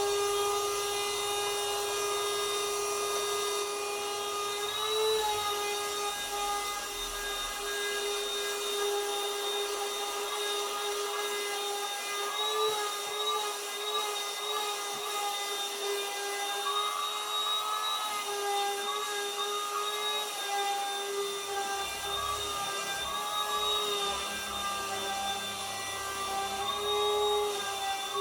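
A small electric motor running steadily, giving a constant whine that wavers slightly in pitch now and then, over a faint hiss.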